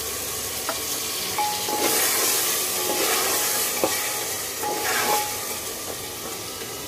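Boiled mutton trotters sizzling in oil and spiced onion-tomato masala in a pressure cooker, stirred with a steel ladle. The ladle scrapes and clinks against the pot a few times over a steady sizzle.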